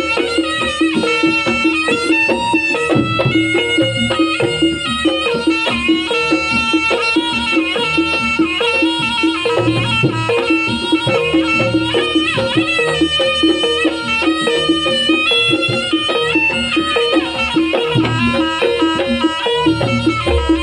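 Live Javanese traditional music for a Pegon dance: a reedy wind instrument plays a continuous melody over steady gamelan percussion and drum strokes.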